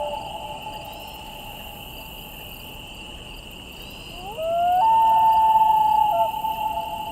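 Common loon wailing: a long call about four seconds in that slides up, steps up to a high held note and drops away again, over a steady high drone of insects.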